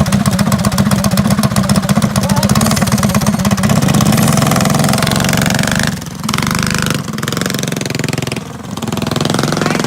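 Mini bike's small engine running close by, steady at first; about four seconds in its note changes, then it drops and picks up again a few times as the throttle is worked.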